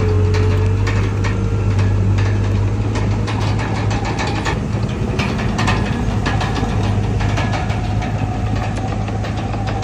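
Komatsu D31PX crawler bulldozer's diesel engine running steadily, with frequent metallic clanks and rattles.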